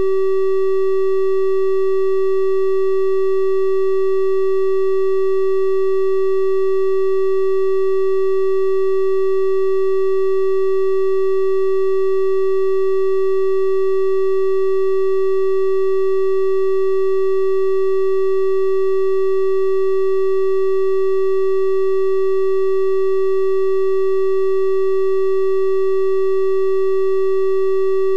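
A continuous synthesized 384 Hz triangle-wave tone, held steady at one pitch and level, with faint odd overtones above the main note.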